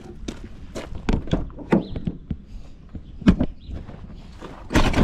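Irregular knocks and clatter of tools and gear being handled and set down, with hard thunks just past three seconds and near the end.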